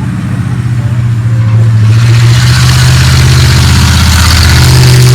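A heavy vehicle engine runs loud, with a steady low drone. A broad rush of noise builds on top of it from about two seconds in.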